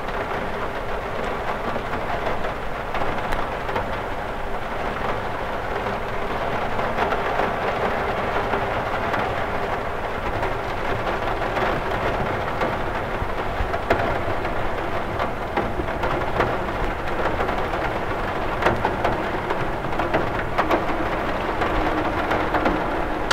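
Steady rain falling on a cathedral window, with scattered sharper ticks of single drops striking the glass.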